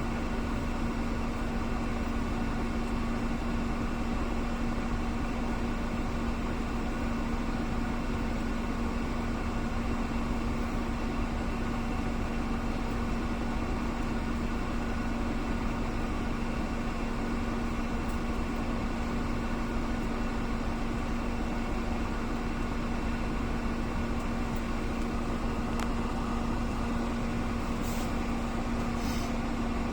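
A steady machine hum with one constant low tone that stays even throughout.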